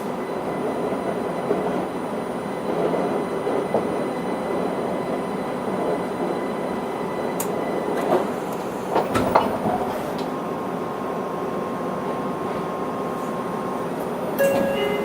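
Interior running noise of a Linimo HSST maglev car, a steady even hum with no wheel or tyre noise, as the train comes in for a station stop. A few sharp clicks and knocks come about eight to ten seconds in, and an electronic chime begins near the end.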